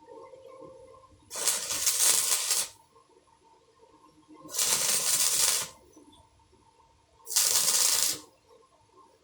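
A welding arc crackling and hissing in three short bursts of about a second each, with pauses between them.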